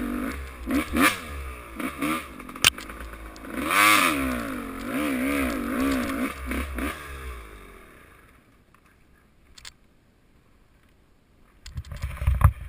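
Motocross motorcycle engine revving up and down through the gears, then fading away after about seven seconds. A short, loud low rumble comes near the end.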